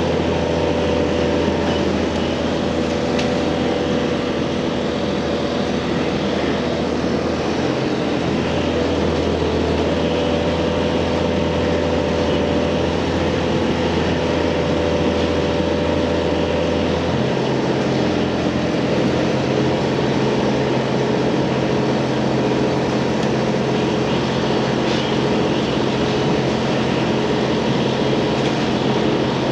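Interior running sound of a JR Hokkaido H100 electric-drive diesel railcar under way: a steady engine drone over wheel and track noise. The low drone drops out briefly about 8 s in, then steps up to a higher pitch about 17 s in as the engine changes speed.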